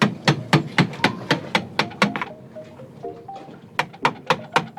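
Rapid banging: a run of sharp, even knocks about four a second, a pause of over a second, then another run. A faint melody of held notes plays underneath.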